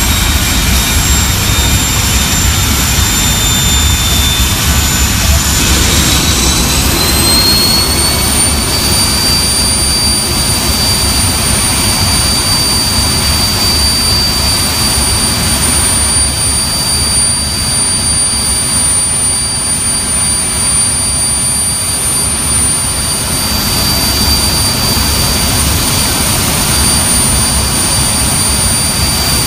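Avro Vulcan B2's Rolls-Royce Olympus turbojets running on the ground: a loud rumble with a high whine. The whine dips slightly, then climbs about six to eight seconds in as the engines spool up, and then holds steady at the higher setting.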